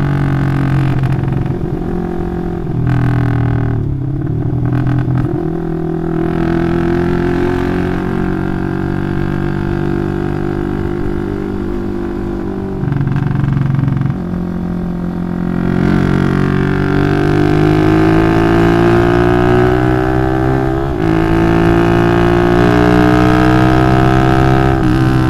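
Bored-up 180cc Yamaha Jupiter MX single-cylinder four-stroke engine through a Requsan aftermarket exhaust, pulling while riding. Its pitch climbs steadily, falls back briefly at each gear change, and the sound grows louder in the second half.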